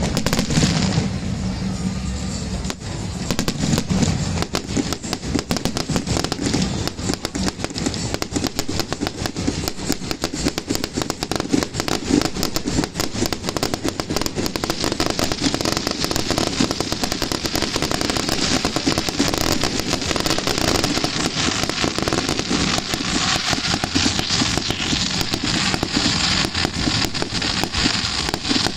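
Fireworks going off in a dense, unbroken run of rapid crackles and bangs.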